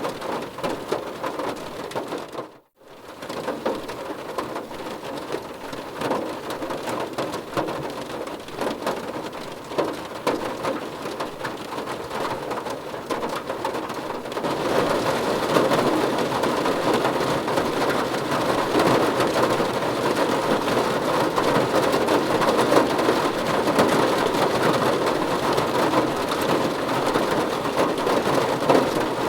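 Rain falling on a car's roof and windows, heard from inside the car: a dense, steady patter of drops. It cuts out for a split second about three seconds in, and about halfway through it turns louder and heavier.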